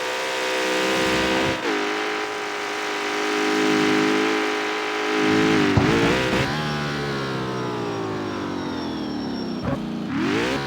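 Jaguar F-Type's supercharged V8 pulling at a steady pitch, dipping briefly about one and a half seconds in. Past the middle its note falls away for several seconds off the throttle, with a couple of sharp pops, and it rises again near the end as it accelerates.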